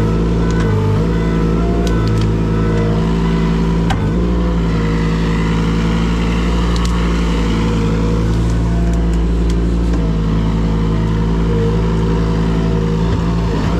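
Engine running steadily at an even speed, with a few faint clicks or cracks over it.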